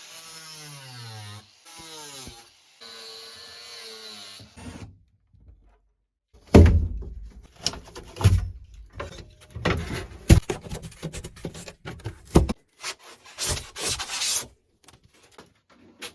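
Building work: a pitched whirring that falls, rises and then holds for about four and a half seconds. After a short pause comes a run of irregular knocks, thumps and scraping, as of wood and tools being handled.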